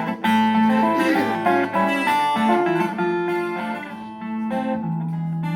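Guitar playing an instrumental break: plucked notes picking out a melody over lower bass notes, with no singing.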